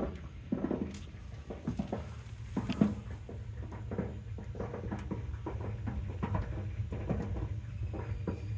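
Water heater tank popping and crackling in quick, irregular snaps over a low steady rumble. This is the noise taken as the sign that the heater needs replacing.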